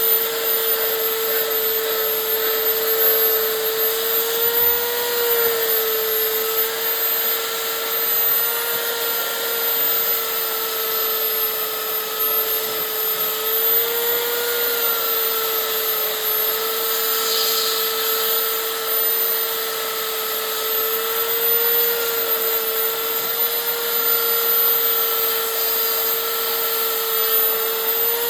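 A high-speed power tool runs continuously on wood, giving a steady whine over a gritty hiss. Its pitch rises a little and settles back several times as the load on it changes.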